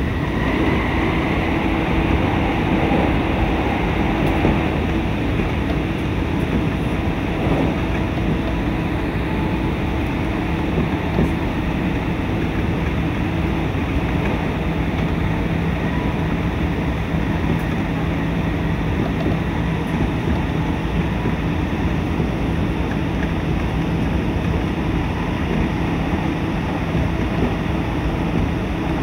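Inside a moving JR train: a steady rumble of the wheels running on the rails at speed, with a low steady hum underneath.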